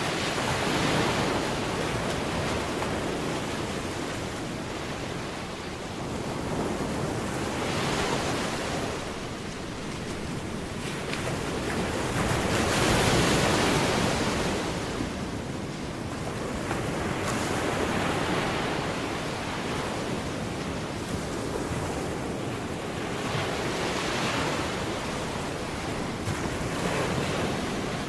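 A rushing noise that swells and fades every few seconds, loudest about halfway through.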